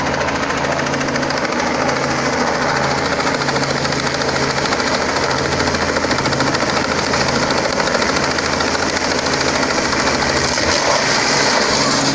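Helicopter engine and rotor running steadily, a fast even beat over a constant low hum.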